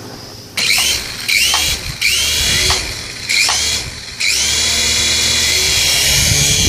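Toy remote-control helicopter's small electric rotor motor whining. It is throttled up in short surges, each starting with a rising whine, then held steady at speed from about four seconds in.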